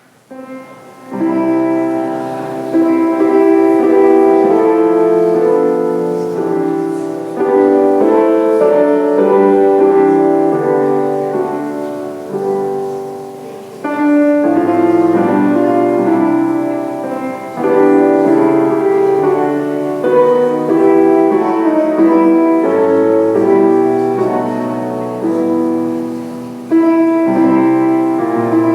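Piano playing a slow piece of held chords, each struck chord fading before the next.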